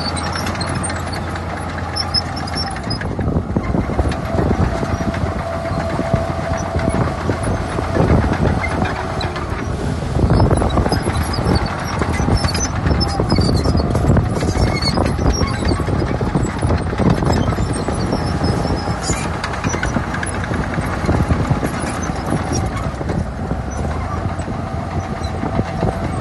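Crawler bulldozer working in sand: its diesel engine runs continuously under a dense, rapid metallic clatter from its steel tracks, with a faint steady whine on and off.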